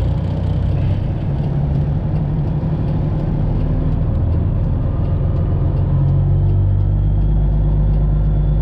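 Straight-piped Detroit Diesel engine of a Freightliner Classic XL semi truck running steadily as the truck is backed with its trailer.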